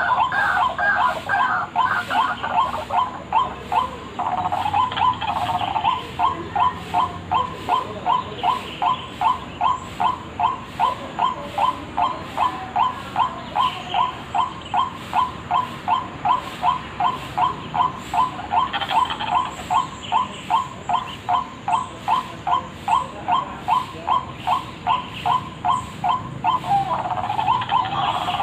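White-breasted waterhen (ruak-ruak) calling as a bird-lure recording: a short call repeated evenly about twice a second, with a faster, more jumbled stretch of calling at the start and again near the end.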